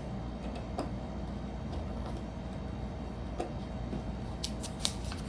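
A few light clicks of small plastic Lego pieces being handled, the last ones coming in a quick cluster near the end, over a steady low hum.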